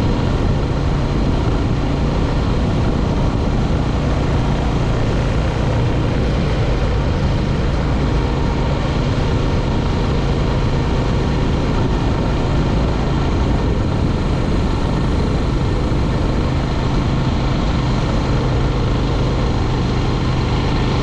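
Motorcycle engine running at a steady cruising speed, mixed with heavy wind rush, with no change in pace throughout.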